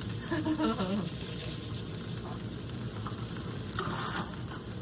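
Food sizzling and crackling steadily in a hot frying pan.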